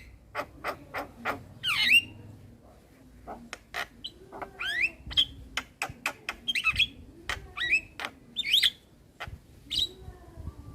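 Male Javan myna (jalak kebo) singing: a rapid run of sharp clicks mixed with squawks and whistled notes that sweep up and down.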